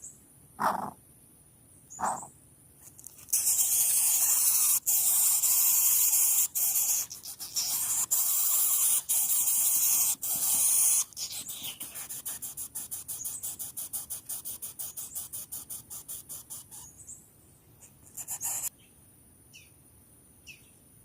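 Greater coucal nestling hissing: two short calls, then a long loud harsh hiss, then a fast series of short hisses that fade away.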